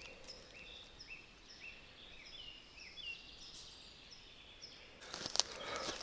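A small bird singing a faint run of short high notes, a few of them sliding downward. About five seconds in, footsteps start to crunch on the dry pine-needle and twig litter of the forest floor.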